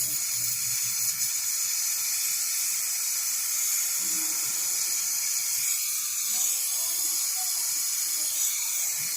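Brazing torch flame hissing steadily while it heats a refrigerator's copper tube joint for brazing to the capillary tube.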